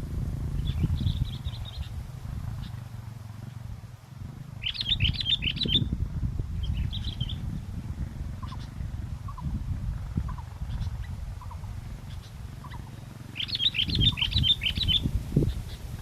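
Sooty-headed bulbuls singing short phrases of quick chirping notes, with two louder bursts about five and fourteen seconds in, over a steady low wind rumble on the microphone.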